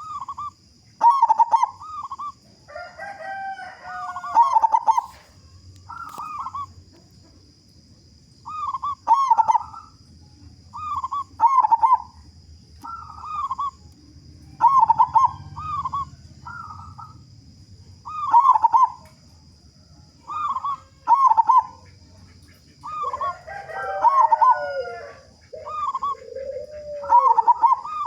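Zebra dove (perkutut) singing: short, curved cooing notes in small bursts, repeated every second or two. Lower, drawn-out curved notes come in about three seconds in and again near the end.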